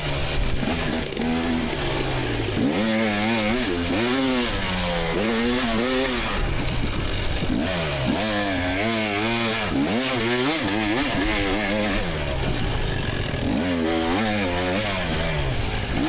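2024 GasGas EX300's two-stroke single-cylinder engine revving up and down over and over as the throttle is worked, with quick rises and falls in pitch.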